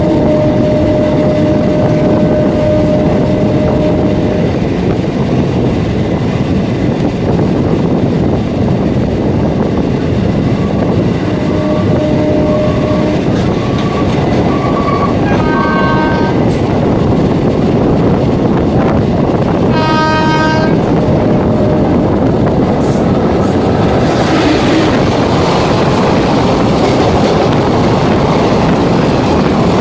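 Electric multiple unit local train running, with a steady loud rumble and hiss from the wheels on the track. Two short horn blasts sound about halfway through, and the hiss grows brighter near the end.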